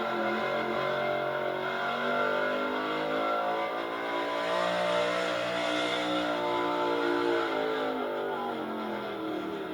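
Engine of an altered gas pulling truck running hard at high revs. Its pitch climbs over the first few seconds, holds high in the middle and falls away near the end.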